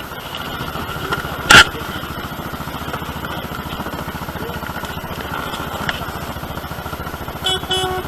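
Motorcycle engine running steadily while riding, with one sharp, loud knock about a second and a half in. A horn begins sounding near the end.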